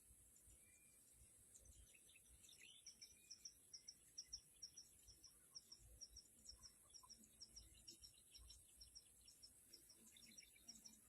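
Faint wild birds chirping: a run of short, high chirps repeated about three or four times a second, with scattered other calls, over a steady high insect buzz.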